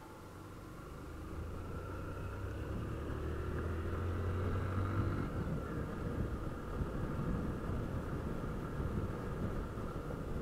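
Honda CG 160 Fan motorcycle's single-cylinder four-stroke engine pulling away and gathering speed, getting louder over the first few seconds. About five seconds in its steady low note gives way to a fluctuating rumble of wind and road noise.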